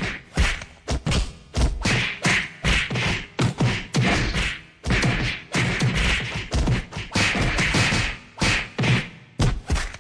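Film fight sound effects: a rapid string of punch and kick hits, sharp whacks with heavy low thuds, about two a second, some with a swish of movement between them.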